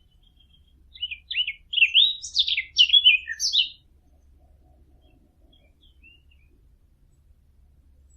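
A small songbird singing one quick phrase of varied, chirping notes lasting about three seconds, starting about a second in, followed by a few faint chirps.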